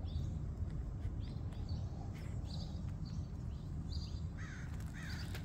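Birds calling: a string of short, high calls about every half second, then two louder, lower calls that sweep downward near the end, over a steady low rumble.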